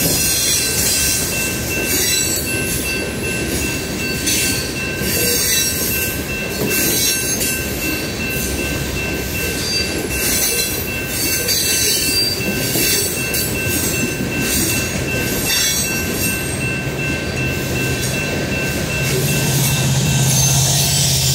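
Open-top hopper cars of a slow BNSF freight train rolling past: a rumble of wheels on rail with regular clicks over the joints, over a steady high-pitched wheel squeal. Near the end the low drone of an approaching diesel locomotive builds under it.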